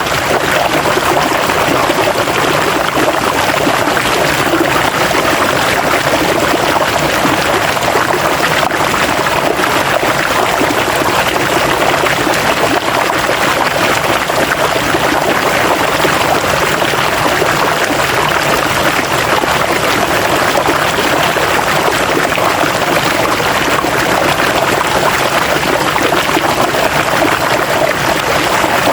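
River water running and splashing in a steady, unbroken rush, loud and even throughout.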